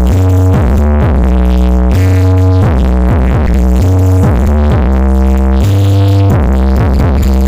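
Loud electronic dance music with heavy, held bass notes and repeated short falling slides, blasting from a large carnival sound system.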